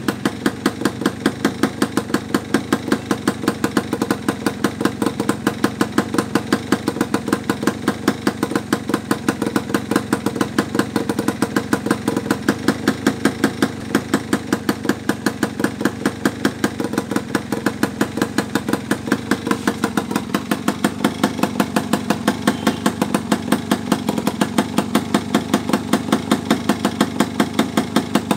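Yamaha F1ZR two-stroke single-cylinder engine idling through a homemade exhaust made of cardboard, running steadily with an even, fast popping beat.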